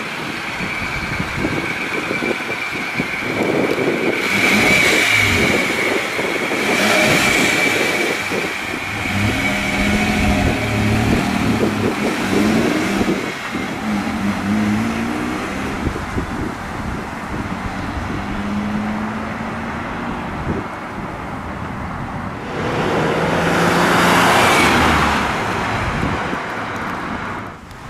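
Holden Jackaroo engine and exhaust running, with the revs rising and falling. There are louder surges about four to eight seconds in and again near the end.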